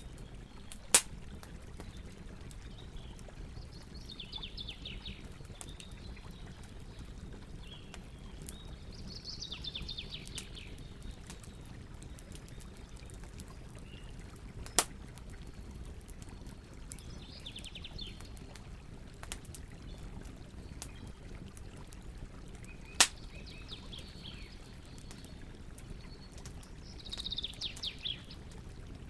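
Campfire with three sharp, loud wood pops about a second in, midway and two-thirds through, over a steady low rush of river water. A bird calls five times, each call a quick run of falling chirps.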